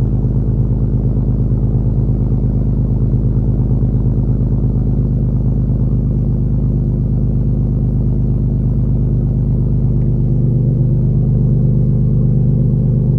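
Infiniti G37's 3.7-litre V6 idling steadily after a cold start, heard through an exhaust with test pipes, a muffler delete and 12-inch resonators; the note gets slightly louder about ten seconds in.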